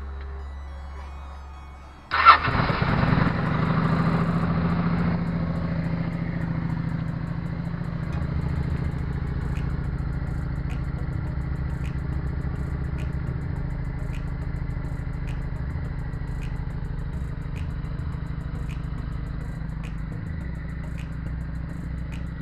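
Kawasaki Vulcan 900 Custom's V-twin engine firing up about two seconds in, with a sharp loud catch, then settling into a steady idle on its fresh oil.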